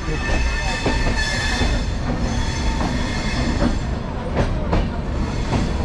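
Passenger train wheels rumbling on the rails, with a high metallic squeal in the first couple of seconds and a few sharp clanks about four and a half seconds in.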